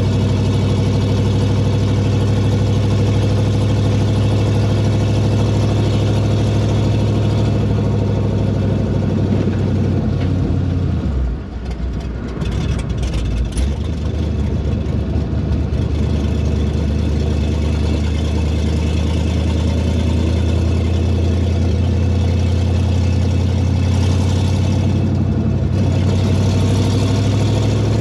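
Pontiac Trans Am engine running with a steady exhaust drone, with a brief break and drop in level about halfway through before it settles back. The car is running with one muffler left off.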